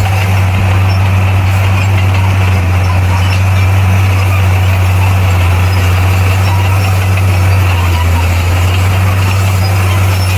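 Heavy diesel earthmoving machine's engine running steadily, a constant low drone with no breaks.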